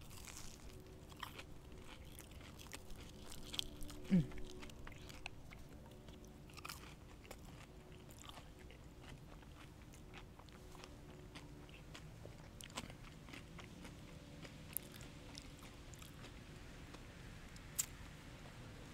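Close-miked eating: chewing and crunching, with scattered small clicks and smacks. About four seconds in there is a brief falling vocal sound. A faint steady hum runs underneath.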